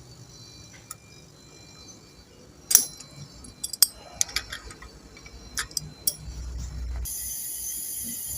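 Scattered metallic clicks and clinks of refrigerant-charging tools and fittings being handled: hose couplings, gauge and valves. About seven seconds in, a steady hiss starts abruptly and holds.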